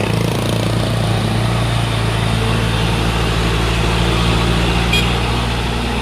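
Truck engine running steadily at low revs, with a short sharp click about five seconds in.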